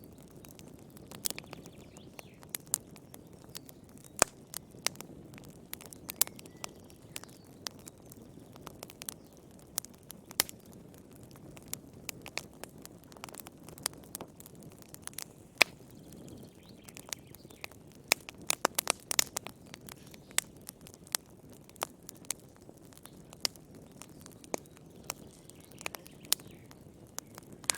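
Wood fire crackling in a fireplace: irregular sharp pops and snaps over a soft low rumble of burning, with a quick cluster of pops about two-thirds of the way through.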